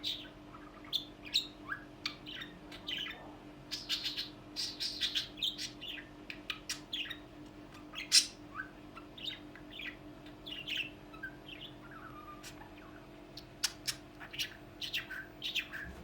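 Pet budgerigar chattering: a quick run of short chirps, squawks and warbling notes, over a steady low hum.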